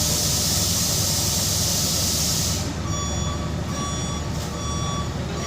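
A heavy diesel machine runs steadily under a loud hiss that cuts off suddenly about halfway through. A backup alarm then starts beeping on and off, about once a second.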